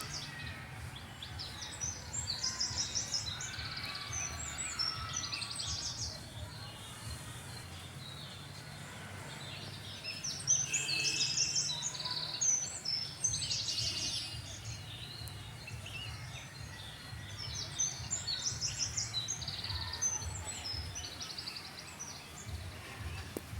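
Small birds chirping and twittering in three spells of quick, high calls, over a steady low rumble.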